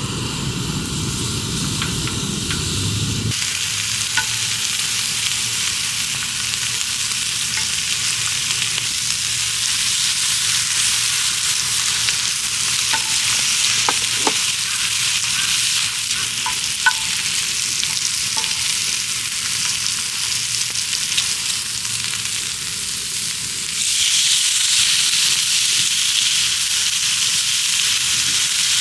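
Food sizzling and frying in oil on a cauldron-lid griddle, a steady high hiss with a few light clicks around the middle. The sizzle grows louder about 24 seconds in. It is preceded by a short stretch of a lower rumbling sound that cuts off abruptly about three seconds in.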